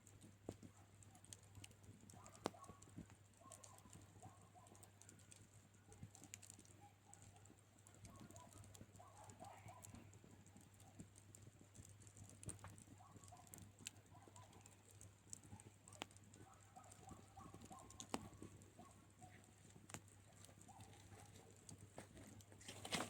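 Quiet campfire crackling: irregular sharp pops and snaps from burning wood, a few louder ones standing out.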